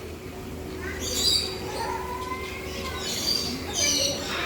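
Birds chirping in short high bursts, once about a second in and again about three seconds in, over a low steady hum.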